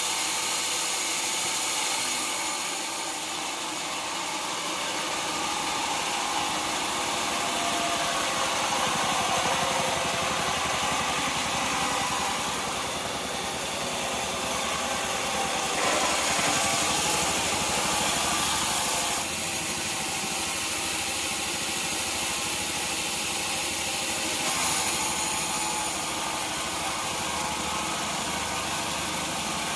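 Sawmill machinery running steadily, engine-driven with a sawing sound, changing character a few times as the work goes on.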